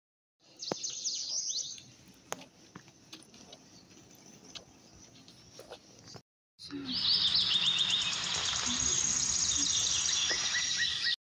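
Small birds chirping and twittering, in two stretches with a brief cut of silence between them. A burst of quick falling chirps comes about half a second in, then it goes quieter with a few sharp clicks. From about the middle a louder, dense chorus of chirps runs over a steady background noise.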